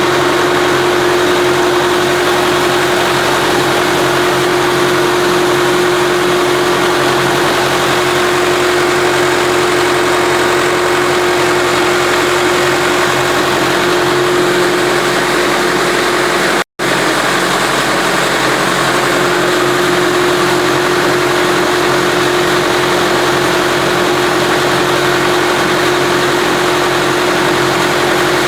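Tractor engine running steadily while driving a vertical turbine pump through its power take-off, with a steady high tone over the engine's hum. The sound cuts out for a split second about two-thirds of the way through.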